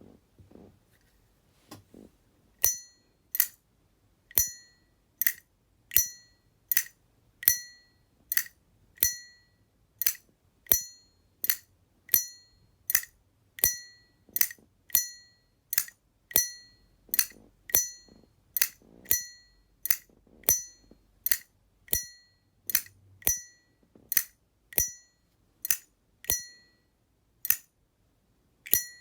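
Tuned Armor-case Zippo lighter's lid flicked open and snapped shut over and over, starting a couple of seconds in at a steady pace of about one to two strokes a second, each a sharp metallic click with a brief clear ring.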